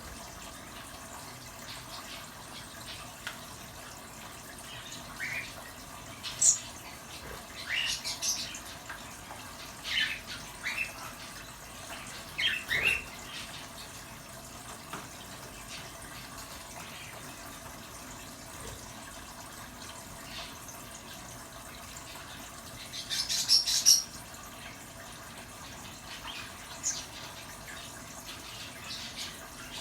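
A battery-operated bird shower spraying water with a steady hiss, while pet birds chirp and squawk now and then. The loudest run of calls comes about three-quarters of the way through.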